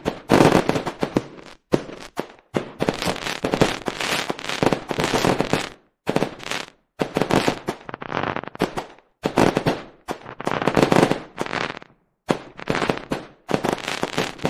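Fireworks bursting and crackling in dense, rapid volleys of sharp pops. Several sudden brief breaks to silence cut the volleys apart.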